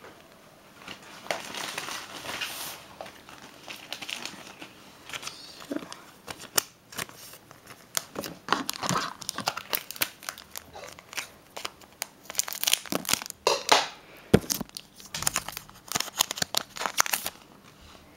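Foil Pokémon booster pack wrapper being torn open and crinkled, in irregular bursts of crackling and rustling.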